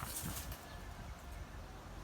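Strong wind buffeting the microphone as a steady low rumble, with a brief rustle in the first half-second.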